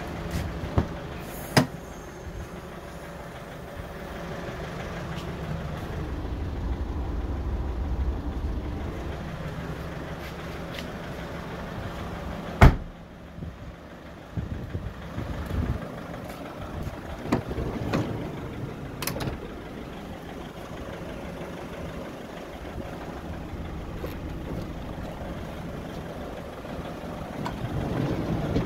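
Mazda 5 2.0 diesel four-cylinder engine idling with a steady low hum. A few sharp clicks sound along the way, and near the end the sliding side door is opened.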